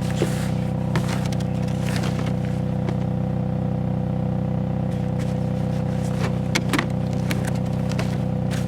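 Steady, unchanging drone of a vehicle's engine and running gear, with scattered light clicks and rattles over it.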